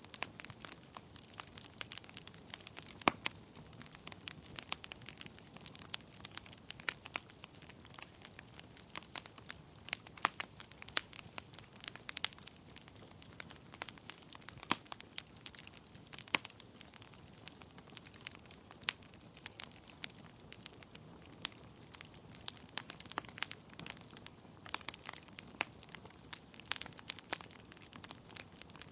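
Wood fire burning in a fireplace: logs crackling with frequent sharp, irregular pops over a soft steady hiss of the flames.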